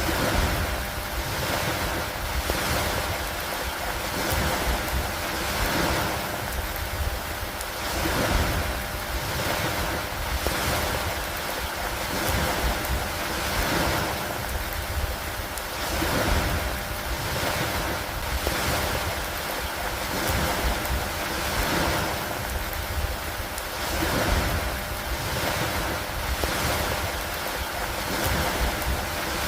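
Steady rain with wind, an even hiss that swells and eases about every two seconds over a constant low rumble.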